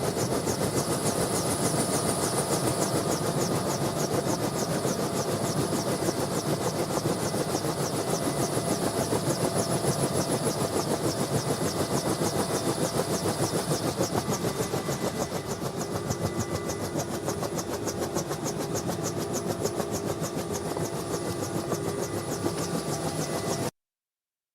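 Bell UH-1N Twin Huey helicopter heard on board: a fast, even chop from the two-bladed main rotor over the steady high whine of its twin turbine engines. It eases off slightly partway through, then cuts off abruptly near the end.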